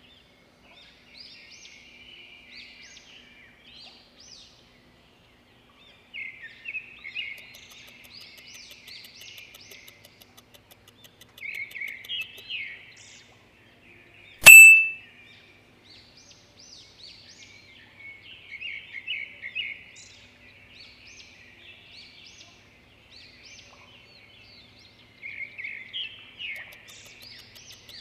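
Songbird singing bursts of quick chirping phrases every few seconds. About halfway through there is a single loud, short ping.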